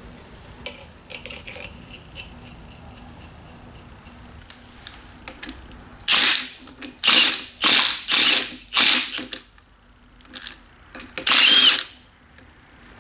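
A ratchet being worked on bolts, clicking in about six short loud bursts in the second half, after a few faint clicks about a second in.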